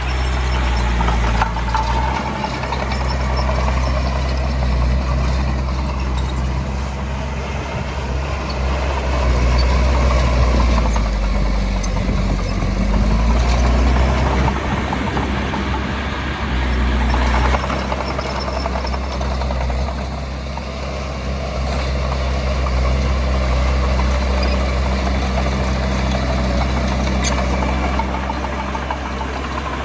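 Diesel engine of heavy earthmoving equipment running steadily, its engine note shifting in pitch around the middle.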